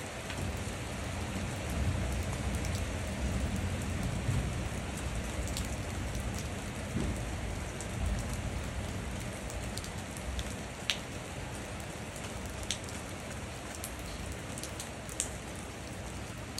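Steady rain falling on wet concrete and puddles, with occasional sharper drop ticks standing out from the patter.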